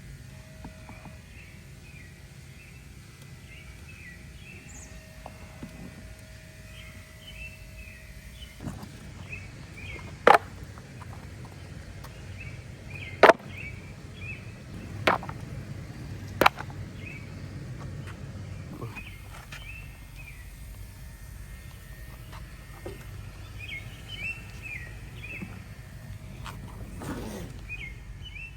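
Outdoor ambience with small birds chirping on and off, broken by four sharp clicks or knocks a couple of seconds apart around the middle.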